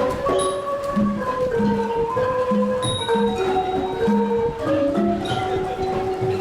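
Several ranat ek, Thai xylophones, playing a melody together in Thai classical style, with notes sustained as rolls and moving step by step over a steady low beat.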